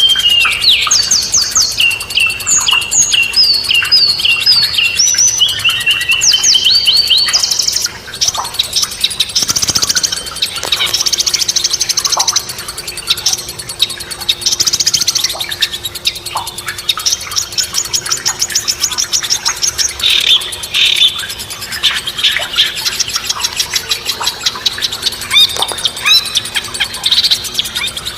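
Songbirds singing: clear, repeated whistled notes that rise and fall. About 8 s in the song changes to rapid high trills and chattering phrases.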